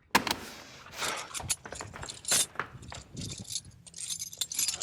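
Clattering and clinking of small hard objects being handled, opening with a sharp clack just after the start and ending in a flurry of bright clinks.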